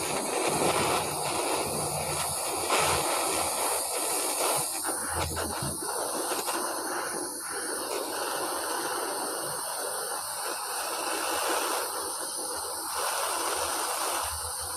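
Steady hissing rush of a gas torch flame heating a broken exhaust manifold stud in a VW cylinder head, with a few light knocks about five seconds in.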